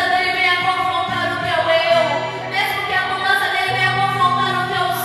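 Worship music: a voice singing long held notes over a steady instrumental accompaniment.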